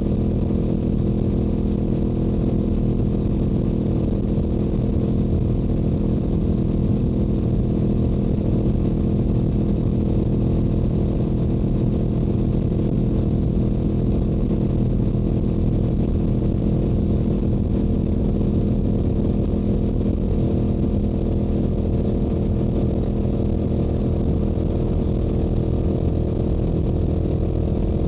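Yamaha YZF-R7's parallel-twin engine through its stock exhaust, running at a steady highway cruise with no change in revs, mixed with wind noise.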